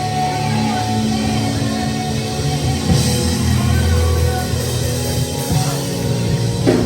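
Church band playing instrumental music with a drum kit, held chords over a bass line, without singing.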